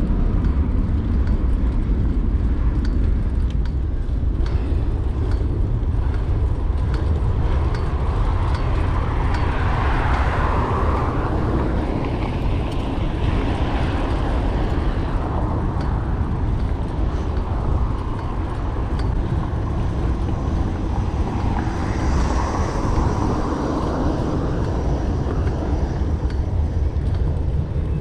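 Steady low rumble of wind and road noise on the microphone of a riding bicycle, with city motor traffic swelling past about a third of the way in and again later on.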